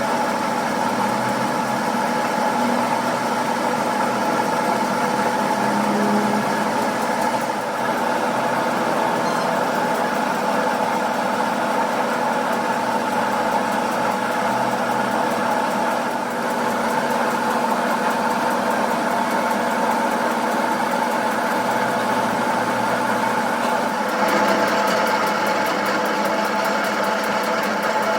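A machine motor running steadily with a constant hum, its sound shifting slightly and growing brighter near the end.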